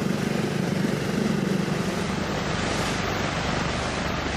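Propeller engines of a de Havilland Canada Caribou transport running in a steady drone, giving way to a broader rushing noise about two seconds in.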